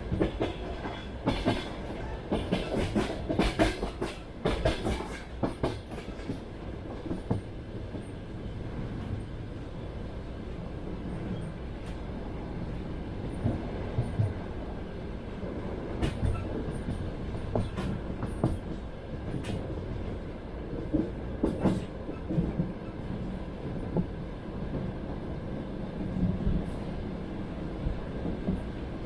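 Passenger train wheels clattering over the rail joints under a steady rumble of the carriage. A quick run of clacks comes in the first few seconds, then the rumble settles with occasional single knocks.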